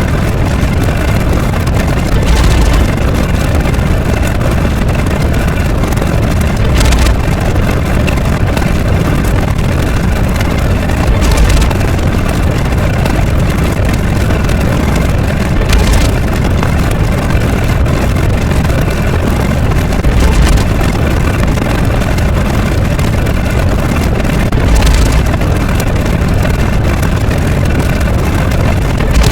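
A loud, steady rumbling noise, heavy in the lows, with a brief louder surge about every four and a half seconds.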